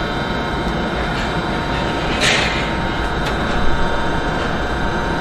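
Train hauled by a Siemens Vectron electric locomotive running on the rails: a steady rumble with several steady high whining tones, and a short hiss about two seconds in.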